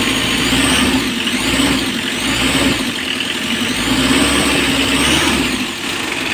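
Mitsubishi L300's diesel engine running with the headlights and air-conditioning on, its pitch wavering up and down a few times.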